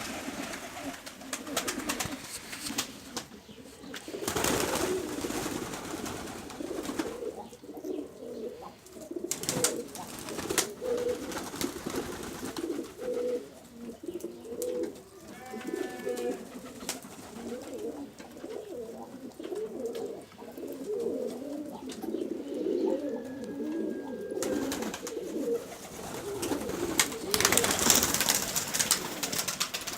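Several domestic pigeons cooing at once, overlapping low coos running continuously. A few louder rustling noises come near the start, at about four seconds and near the end, and a couple of faint higher chirps come in the middle.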